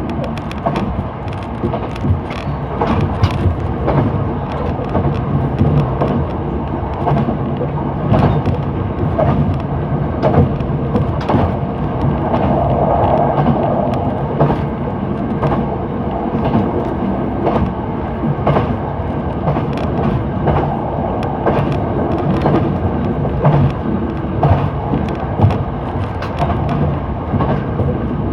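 Passenger train running along the line, heard on board: a steady low rumble of wheels on rail with frequent irregular clicks and clatter.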